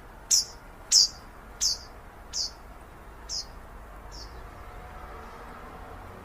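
A bird calling: a run of sharp, high, down-slurred chirps, six in all, coming further apart and growing fainter until they stop about four seconds in.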